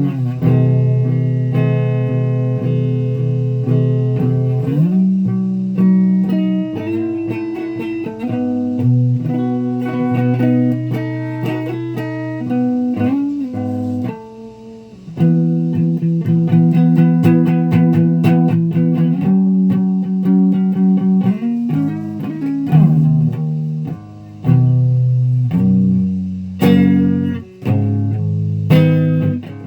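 Electric guitar playing sustained chords and single-note lines, with short breaks about fourteen and twenty-four seconds in and a few sharp picked strikes near the end.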